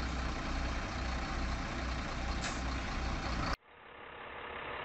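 Heavy truck diesel engine running with a steady low rumble. It cuts off abruptly about three and a half seconds in, and a fainter engine sound slowly grows louder.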